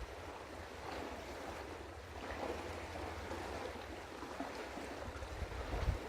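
Wind on an outdoor microphone over a steady rush of river water, with a few low gusts buffeting the microphone near the end.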